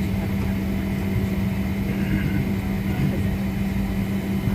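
Steady drone of aircraft machinery on an airport ramp: a strong, constant low hum with fainter high whining tones above it.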